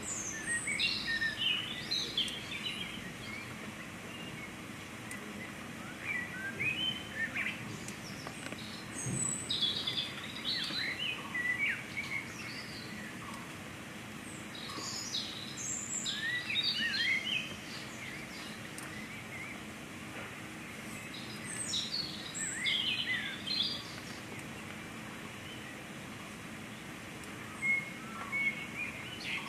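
Small birds chirping in several bouts of quick, high, sharply gliding calls, with pauses of a few seconds between bouts, over a steady background hum.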